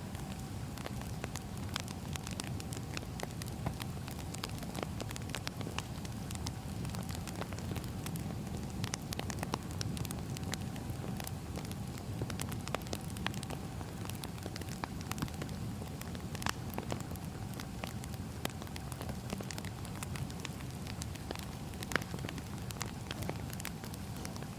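Wood fire burning: a steady low rumble with frequent irregular sharp crackles and pops of the burning logs.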